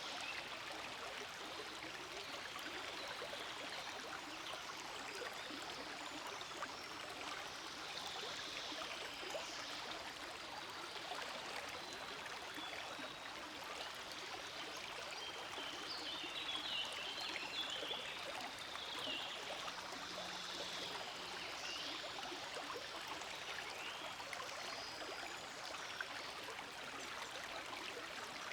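A forest creek flowing steadily, with a continuous rushing and trickling of water.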